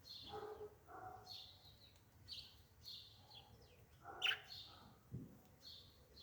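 Small birds chirping in the background, short high calls repeating about once or twice a second, with a brief sharp click a little past the middle.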